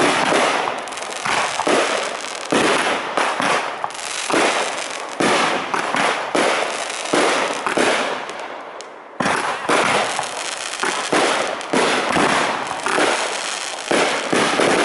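Aerial fireworks shells bursting overhead in quick succession, one or two sharp booms a second, each trailing off in a rumbling echo. There is a short lull about eight seconds in, then the bursts start again abruptly.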